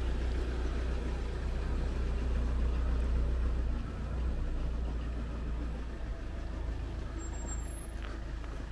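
A motor vehicle's engine idling with a steady low rumble, easing slightly about four seconds in.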